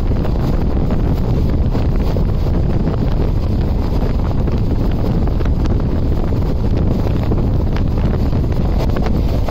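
Passenger train running at speed: a steady low rumble of wheels on the track, with strong wind blowing on the microphone.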